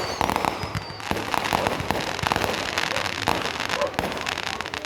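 Fireworks crackling: a dense, rapid string of small pops, with a falling whistle fading out in the first second.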